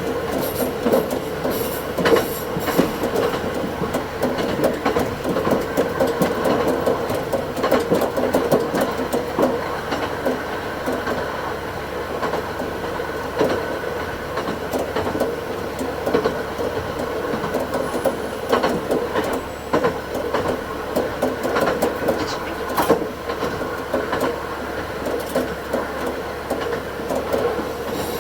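Diesel railcar running along the line, a steady engine and running hum with frequent short clicks of wheels over rail joints, the audio sped up to double speed.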